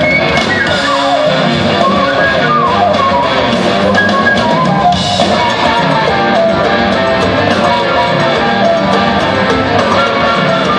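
Live rock band jamming: a lead electric guitar plays a run of melodic lines, many of them gliding between notes, over rhythm guitar, bass and a drum kit.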